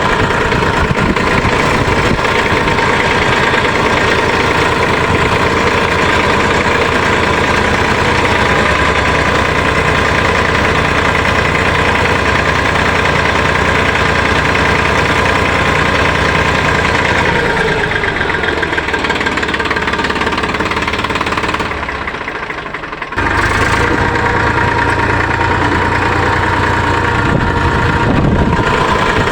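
Mini tractor engine running steadily. It softens for a few seconds about two-thirds of the way through, then comes back suddenly at full level.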